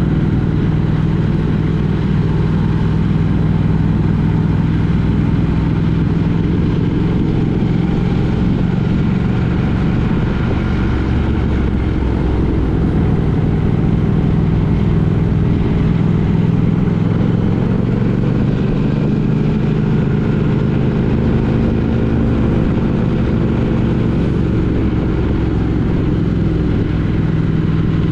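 Steady engine and road noise of a road vehicle under way, with a low engine hum that drifts a little in pitch.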